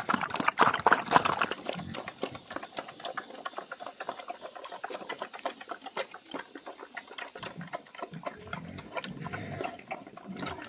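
Pigs feeding: a dense run of quick wet chewing and smacking clicks, with low grunts about eight seconds in. The first second and a half is louder and splashier.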